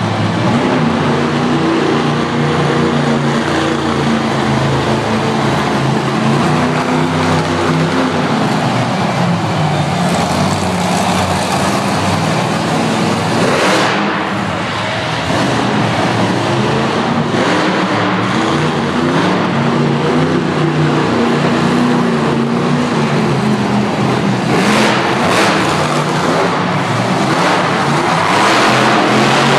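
Monster truck engines running loud, their pitch rising and falling as they rev, with a short dip in loudness about fourteen seconds in.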